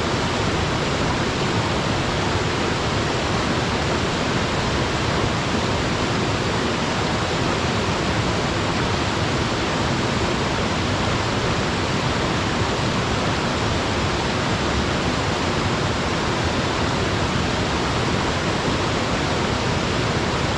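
Waterfall on a mountain stream: water falling and splashing into a pool in a steady, even rush that doesn't change.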